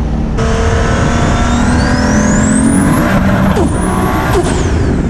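Turbocharged 2JZ-GTE straight-six in a 900 hp Toyota SC300, heard from inside the cabin, pulling hard. A high turbo whistle rises steadily for about a second and a half and then drops away near the end as the throttle comes off.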